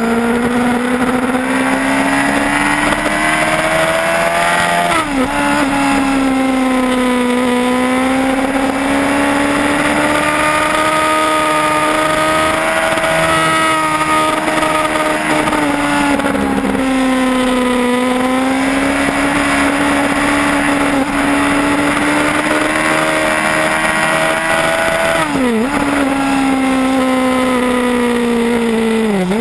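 Yamaha R1's inline-four engine pulling hard at speed, its pitch climbing and easing with the throttle through the bends, with sudden drops in pitch at quick upshifts: once about five seconds in, again near the end and right at the close. Steady wind rush over the bike-mounted camera runs under the engine.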